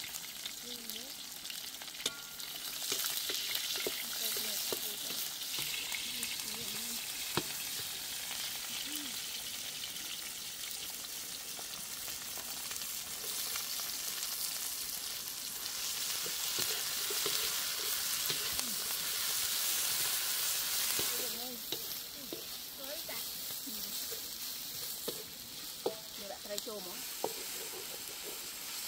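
Shallots, lemongrass and red chillies sizzling in hot oil in a large metal wok, with a spatula stirring and now and then clicking against the pan. The sizzling swells twice, a few seconds in and again past halfway.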